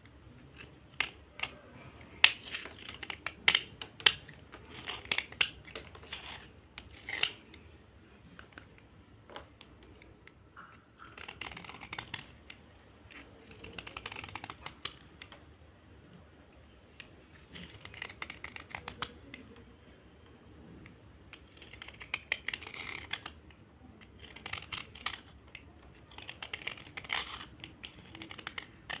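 A small slate bar being scraped, giving crunchy, gritty scratches in clusters of quick strokes with pauses of a second or two between them.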